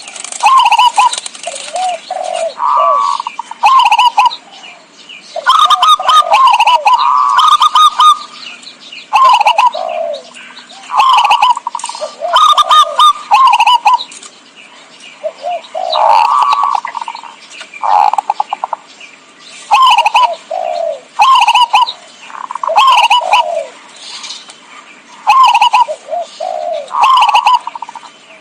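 Zebra doves (perkutut) cooing in short phrases of quick rolling notes, one phrase every second or two, with higher chirps among them: a perkutut lure call.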